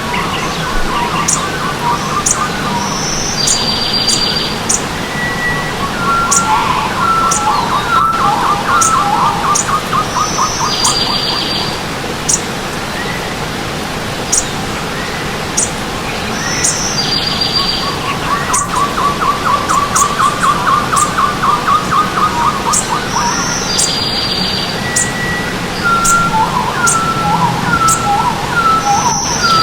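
Several birds chirping, trilling and whistling over steady running stream water. The same run of calls comes back about every seven seconds.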